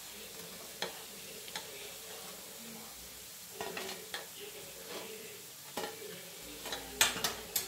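Chana dal fritters sizzling in oil on a flat griddle pan, with a spatula scraping and clacking against the pan as the fritters are lifted off. The clacks come every second or so, loudest in a quick cluster near the end.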